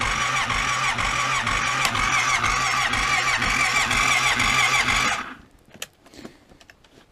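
Honda Rincon ATV's electric starter cranking its cold carbureted engine for about five seconds without it catching, then cutting off suddenly. A few light clicks follow.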